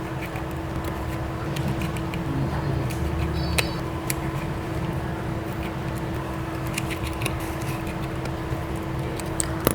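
Steady machine hum over a low rumble, with scattered light clicks and taps.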